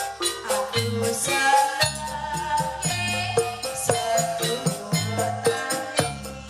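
Jaranan campursari accompaniment music: tuned melodic notes over a fast, even percussion beat and a low bass line.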